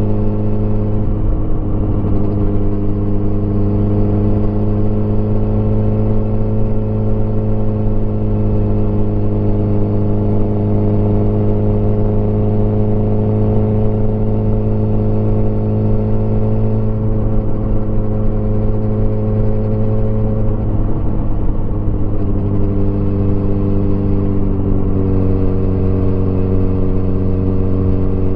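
Motorcycle engine running at a steady cruise during a ride. The note holds steady but shifts briefly twice, once near the start and again a little after twenty seconds.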